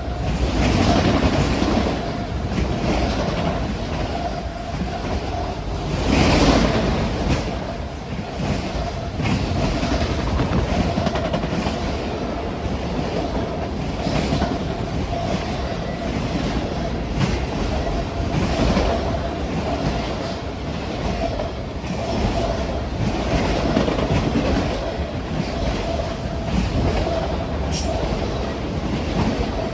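Freight train cars rolling past on the track: a continuous wheel-on-rail rumble with repeated clacks of wheels over the rail joints and a steady hum underneath.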